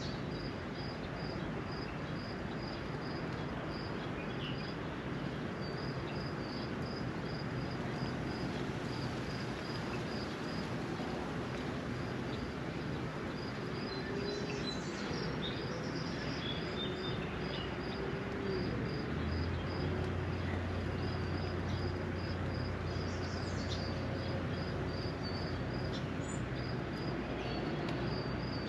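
Steady patter of spring rain, with a high chirp repeating about two to three times a second and scattered short bird calls. A low hum comes in about two-thirds of the way through.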